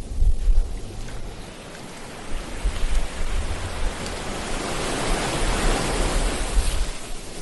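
Ocean waves breaking on a beach: the surf swells about a third of the way in, washes in loudest past the middle and eases off near the end, over a low rumble.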